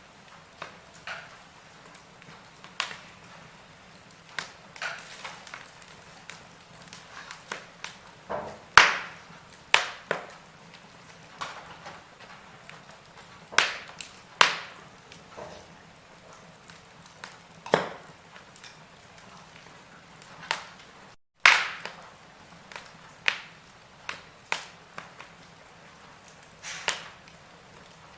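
Wood fire in a fireplace crackling: irregular pops and snaps of burning logs over a faint steady hiss, with the loudest snaps about 9 and 21 seconds in. The sound cuts out completely for a split second just before the second of these.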